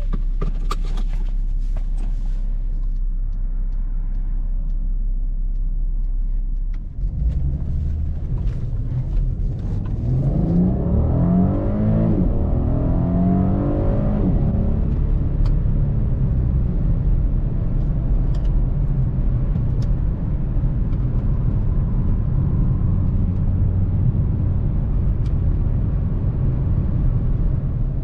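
Volkswagen CC's 3.6-litre VR6 engine idling with a steady low hum and a few clicks at first. About seven seconds in the car pulls away, and the engine note rises in pitch as it accelerates. It then settles into a steady cruise with a low engine and road rumble.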